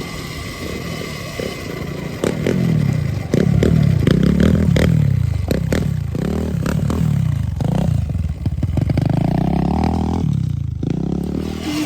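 Sur-Ron Ultra Bee electric dirt bike's motor whining up and down over and over as the throttle is worked, with clattering knocks from the bike over rough ground. It gets louder a couple of seconds in and cuts out briefly near the end.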